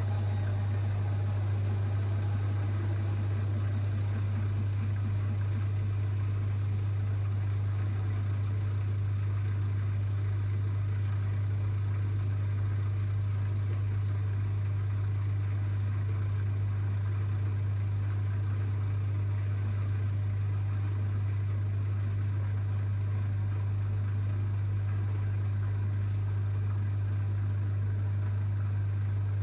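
Zanker EFX 4875 washing machine in its final spin, running at a steady high speed with a strong, even hum.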